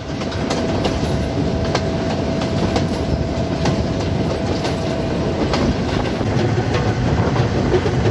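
Passenger train running, heard from an open carriage door or window: a steady rumble with irregular clicks of the wheels over rail joints. A thin steady whine sounds over it for the first five seconds or so.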